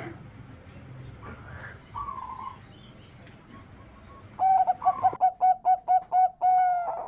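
Zebra dove (perkutut) cooing: a short note about two seconds in, then a loud rapid run of staccato coos ending in one longer held note.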